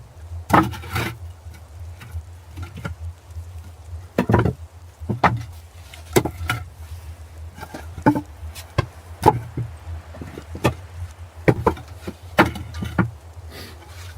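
Irregular knocks, taps and short scrapes, about twenty of them at uneven spacing, over a steady low hum.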